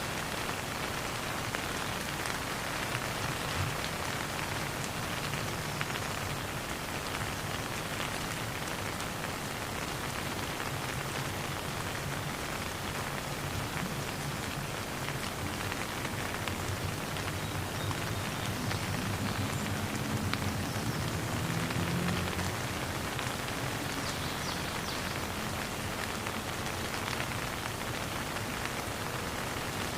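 Steady rain falling on a surface, an even hiss of many drops with no thunder. A faint low drone swells underneath for a few seconds past the middle.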